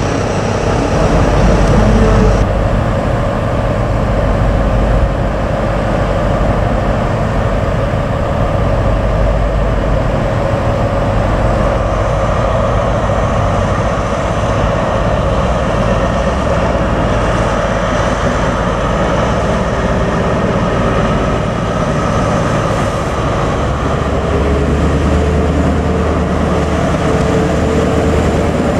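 Diesel passenger train running: a steady engine rumble with a faint constant hum over it.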